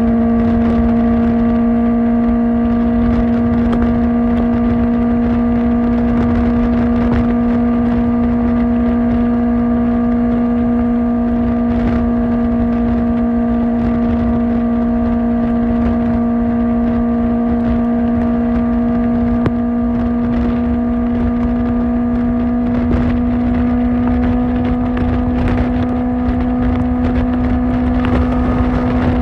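Kawasaki Ninja ZX-4R's inline-four engine through an Akrapovic exhaust, held at steady cruising revs: one constant engine note that creeps up slightly near the end, over a low rumble.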